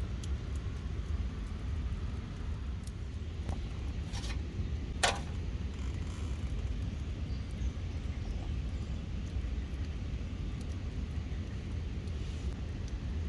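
Steady low outdoor rumble with scattered faint crackles and one sharp click about five seconds in.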